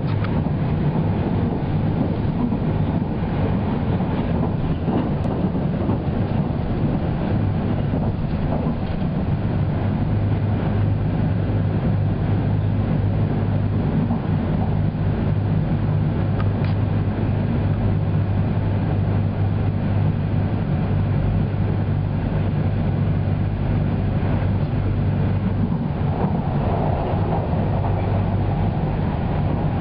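Haruka limited express electric train running at speed, heard from inside a passenger car: a steady low hum and rumble of the train on the rails. Near the end the hum drops away and the sound turns brighter.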